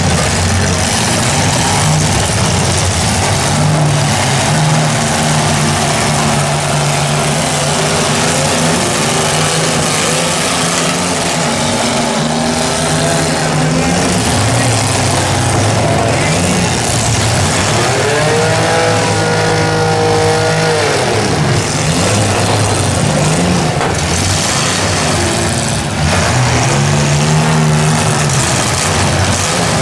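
Several compact demolition-derby cars' engines running and revving on a dirt arena, over a steady wash of noise; one engine revs up and back down about two-thirds of the way through.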